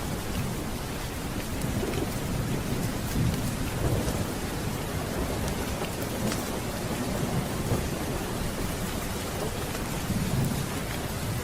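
Steady heavy rain with low rolling thunder that swells twice, a few seconds in and again near the end.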